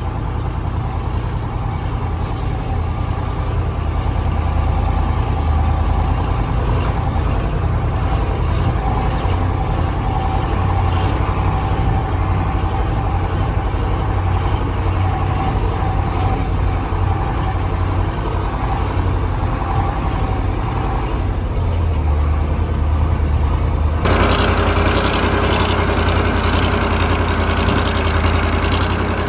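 1985 KAMAZ 4310 6x6 truck's V8 diesel engine running steadily while driving. About 24 seconds in the sound changes abruptly, turning brighter with more hiss and rattle.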